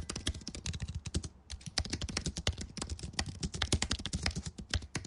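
Rapid computer keyboard typing: a quick, irregular run of key clicks, with a brief pause about a second and a half in.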